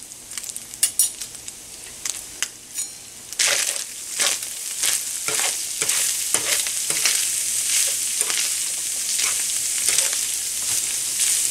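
Browned ground beef, sausage and chopped onion sizzling in a skillet while a spoon stirs and scrapes through them. The first few seconds hold only a few light clicks; about three seconds in the sizzle grows loud and steady, with a scrape at each stroke of the spoon.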